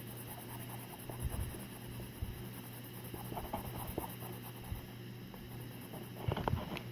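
Wet-tipped watercolor pencil drawing on the surface in short, irregular scratchy strokes, with a cluster of strokes near the end, over a steady low hum.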